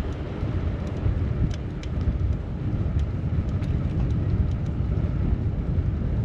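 Rumbling wind and road noise on a bicycle-mounted camera's microphone while riding in city traffic, with a few faint ticks.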